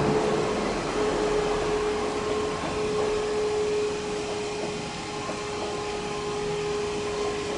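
Toei 12-600 series subway cars, towed as a freight delivery, rolling past on elevated track and moving away: a steady rumble of wheels on rail with a steady whine that slowly fades.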